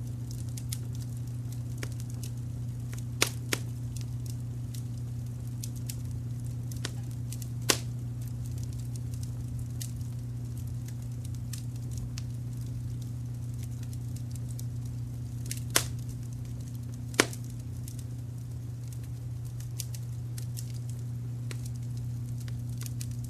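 Wood fire crackling with frequent small snaps and a handful of louder pops, over a steady low brown-noise hum.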